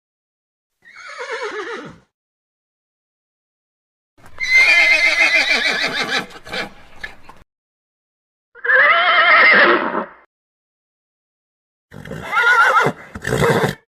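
Horse whinnying: four separate neighs with silent gaps between them. The first is short and falls in pitch. The second is the longest, about three seconds, and quavers, and two more follow.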